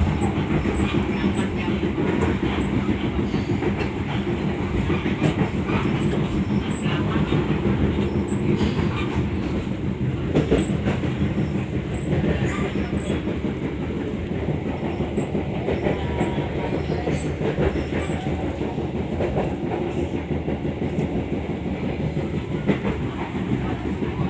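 Passenger train running, heard from inside the carriage: a steady rumble with the wheels clacking over rail joints.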